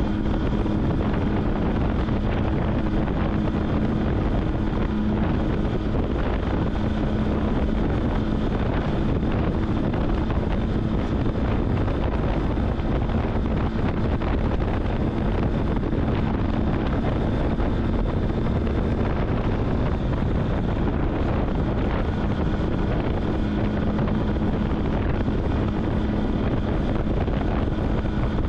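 Wind noise on the microphone over a Triumph Street Triple's three-cylinder engine running at a steady cruising speed, with an even engine hum.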